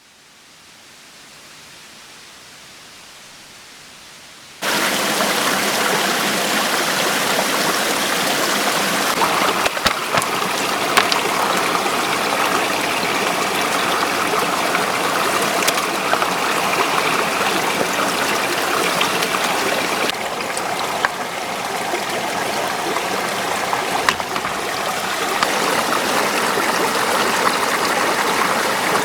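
Mountain stream flowing steadily, a loud even rush of water. A quieter hiss fades in first, and the full water sound comes in suddenly about four and a half seconds in.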